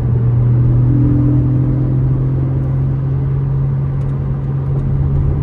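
Inside the cabin of a Porsche 718 Cayman GTS 4.0, its naturally aspirated 4.0-litre flat-six drones at a steady highway cruise, with tyre and road noise underneath.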